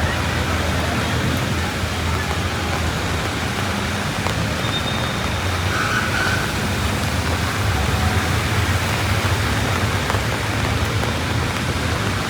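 Heavy rain falling in a steady hiss, with the low rumble of road traffic underneath.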